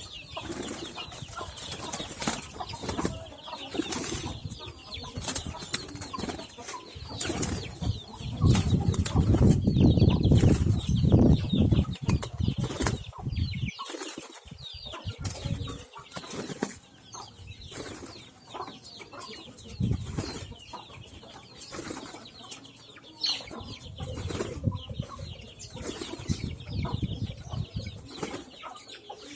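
Pigeons' wings flapping in repeated short bursts, with a heavier low rumble for a few seconds about a third of the way in and a brief cut-out in the sound shortly after.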